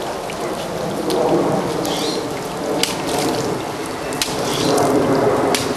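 Heavy rain pouring steadily, with a few sharp ticks of drops or splashes close to the microphone.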